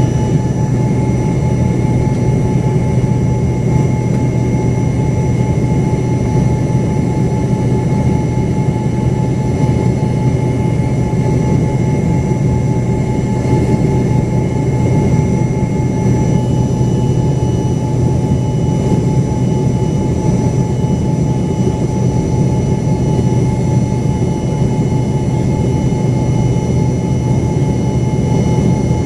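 Steady cabin noise inside an Embraer ERJ-135 regional jet: a loud, even rumble with a constant high whine from its rear-mounted Rolls-Royce AE 3007 turbofan engines.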